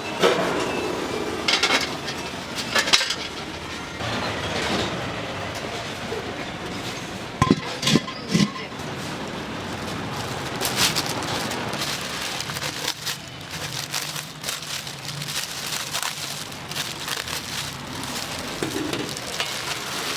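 Kitchen clatter: dishes and utensils clinking and knocking in scattered sharp strikes, with a quick run of three about halfway through, over a steady background hiss.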